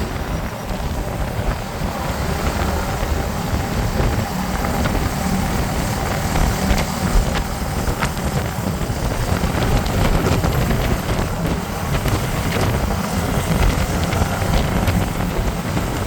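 Motorcycle riding at steady speed, heard from a helmet-mounted camera: wind buffeting the microphone over the running engine and road noise, with no change in pace.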